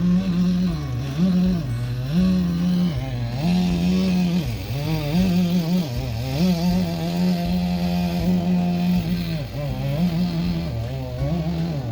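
Chainsaw running at high throttle while cutting, its engine speed dipping and climbing back every second or so as the chain loads in the wood.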